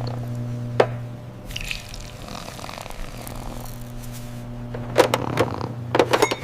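Cartoon sound effects of a machine running with a steady low hum, layered with wet, liquid-like noises and sharp clicks: one about a second in, and a quick cluster near the end.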